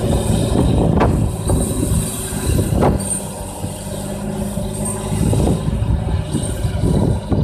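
John Deere tractor's diesel engine running steadily while ploughing wet, muddy ground, with several knocks and clanks along the way.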